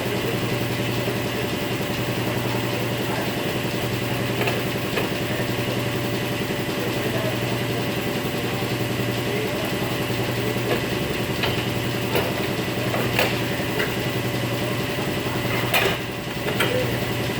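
A steady low machine hum with an engine-like drone, with a few sharp metal clinks of tools in the second half.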